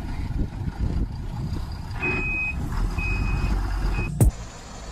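Heavy truck's engine rumbling while its reversing alarm beeps: a steady high half-second tone repeating about once a second, starting about two seconds in. A sharp click near the end cuts the third beep short, and after it the rumble is quieter.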